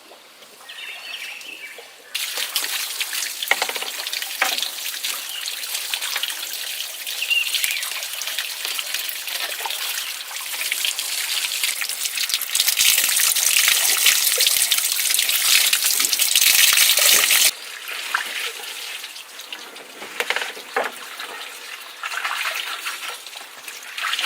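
Water running and splashing. It starts suddenly about two seconds in, grows louder for a stretch, cuts off sharply about two-thirds of the way through, then carries on as lighter, uneven splashing.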